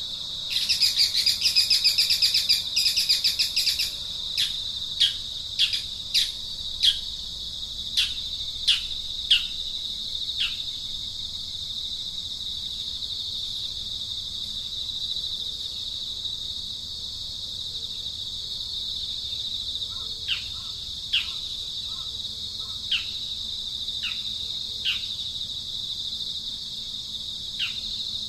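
Outdoor insect chorus with a steady high-pitched hum, a loud rapid buzzing for about three seconds near the start, then a bird's short falling whistled calls, repeated about once a second, pausing for a while and starting again later.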